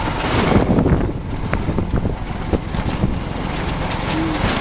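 A jeep driving on a dirt road: steady engine and road rumble with many small knocks and rattles from the bumps.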